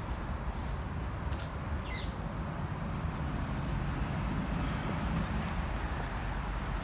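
A single short squawking bird call about two seconds in, over a steady low outdoor rumble.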